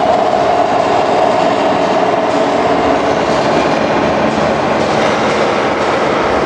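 Steady, loud vehicle running noise, an even rushing rumble, with a held tone that fades away over the first two seconds.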